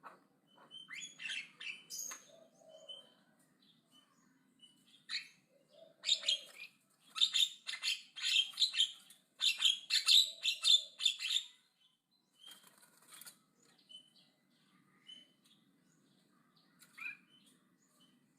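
Javan myna chattering loudly in harsh, grating, rapidly repeated notes. The calls are scattered at first, then come in a dense, loud run through the middle before thinning out to a few single notes.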